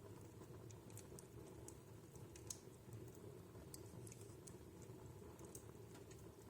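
Wood fire burning quietly in a home fireplace: a soft steady rumble with scattered sharp crackles and pops from the burning logs, one sharper pop about two and a half seconds in.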